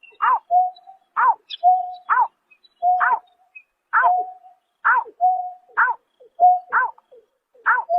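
Greater painted-snipe calling: a short hooting note repeated steadily about once a second, each followed by a brief level tone.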